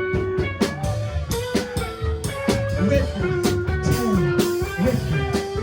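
A live rock band playing an instrumental passage: electric guitar with held and bending notes over bass and a drum kit keeping a steady beat.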